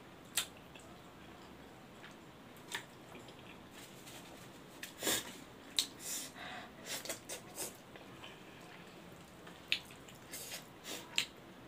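Wet chewing and lip-smacking of someone eating pork leg by hand: scattered short, sharp mouth clicks, several in quick succession in the second half.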